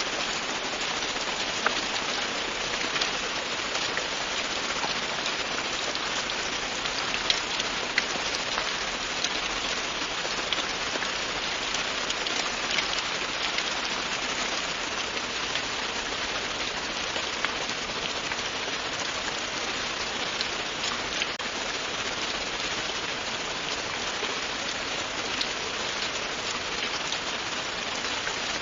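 Steady, continuous rain falling on a surface, an even hiss with scattered individual drops ticking through it.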